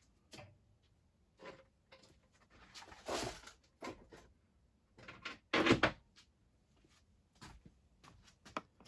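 Scattered clicks, knocks and clatters as small carburettor and choke parts are handled. The loudest clatters come about three seconds in and again just before six seconds.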